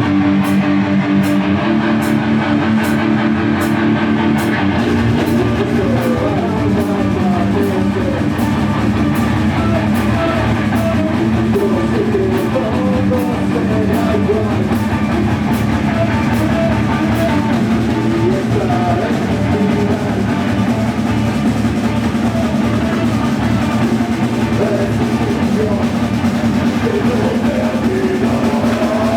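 Heavy metal band playing live: distorted electric guitars, bass and drum kit in a steady instrumental passage. About six seconds in, a higher melody line that bends up and down in pitch comes in over the riff.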